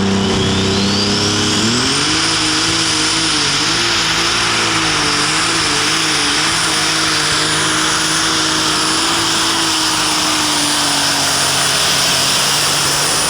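Light super stock pulling tractor's turbocharged diesel engine at full power during a pull. The engine revs up sharply about a second and a half in while a high turbo whine climbs and then holds. The engine note wavers for several seconds before settling into a steady run.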